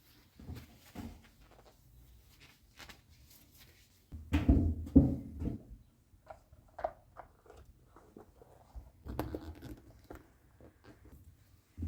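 Irregular knocks and clatter of objects being handled, loudest in a cluster about four to six seconds in.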